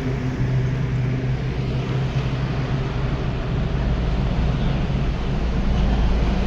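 A car engine running steadily, its hum sinking lower about halfway through.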